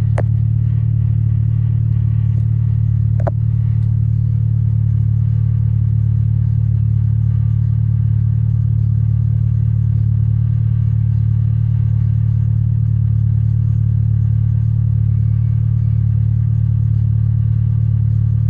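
Stage 3 tuned Volkswagen Golf R's turbocharged 2.0-litre four-cylinder cruising at a steady engine speed, heard as a constant low drone from inside the car. A single click sounds about three seconds in.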